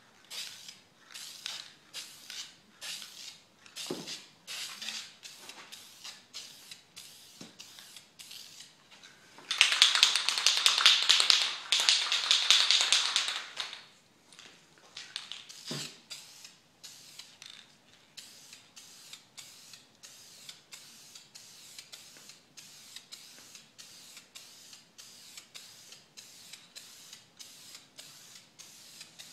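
Aerosol spray paint can being shaken, its mixing ball rattling at about two to three clicks a second, with one loud spray of paint lasting about four and a half seconds near the middle. A few dull knocks come in between.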